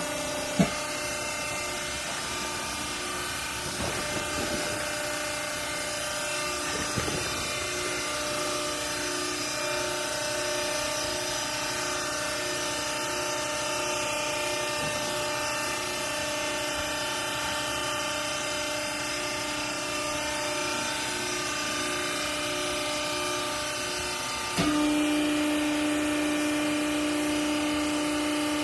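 Hydraulic baling press's motor and pump running with a steady hum, with a sharp click about half a second in and a couple of light knocks. Near the end the hum suddenly steps up louder around one strong low tone.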